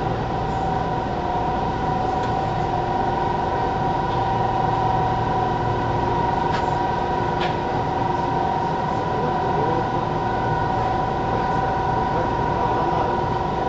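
Steady interior sound of a JR 413 series electric multiple unit, heard from inside motor car KuMoHa 413-4: a constant rumble with an even hum of two steady tones, and a couple of faint clicks about halfway through.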